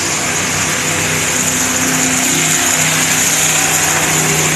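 Monster truck engines running, a steady engine drone under a constant hiss.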